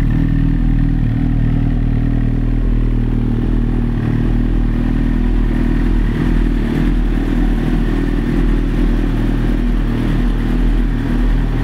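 2007 Suzuki GSX-R1000's inline four-cylinder engine idling steadily through an aftermarket exhaust pipe.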